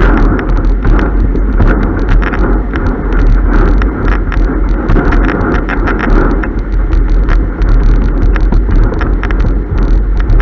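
Slalom windsurf board planing fast: heavy wind buffeting the microphone over rushing water, with frequent sharp slaps of the board on chop.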